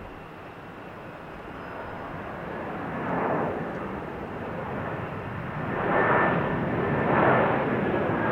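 Airplane passing overhead, its engine noise growing steadily louder and swelling in uneven waves as it approaches.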